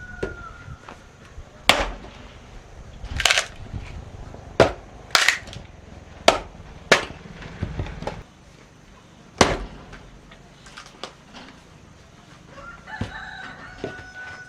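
A rooster crowing right at the start and again near the end. Between the crows come about seven sharp, irregular knocks, a second or two apart, some with a short rasping tail.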